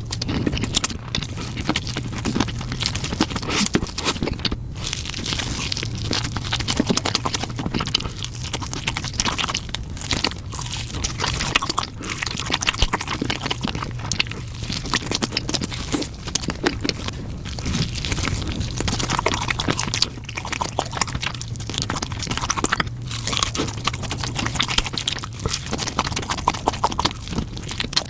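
Close-miked mouth sounds of someone biting and chewing a spicy chicken leg piece: dense, irregular crunching and wet crackling, continuous without pauses.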